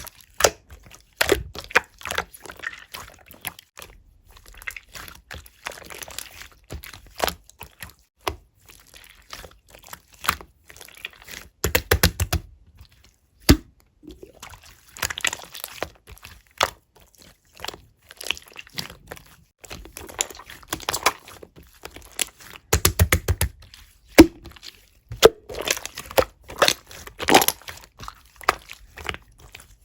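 Hands squishing, folding and stretching runny pink slime, giving sharp clicks and pops as air pockets burst, with soft wet squishing between them. There are two dense quick runs of pops, about 12 and 23 seconds in. The slime has melted and gone runny.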